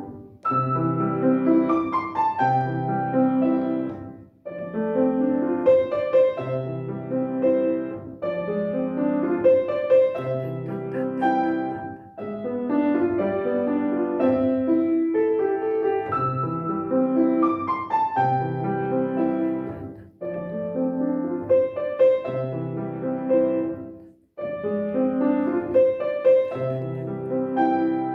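Solo piano playing a simple children's piece in short phrases of about four seconds each, with brief breaks between phrases.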